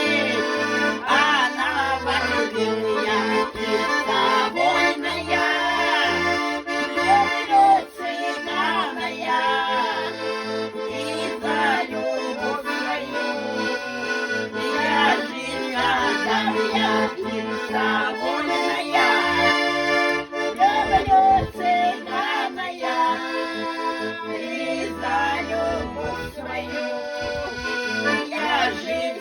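Accordion playing an instrumental melody over sustained chords, with a rhythmic bass that steps on and off underneath.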